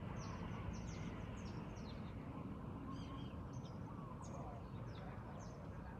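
Small birds chirping: many short, high chirps scattered through, over a faint steady background rumble.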